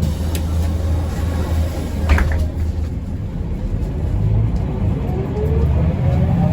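Cabin sound of a Mercedes-Benz O405N2 city bus on the move: steady engine and road rumble, with a sharp knock about two seconds in, then a rising whine toward the end as the bus accelerates.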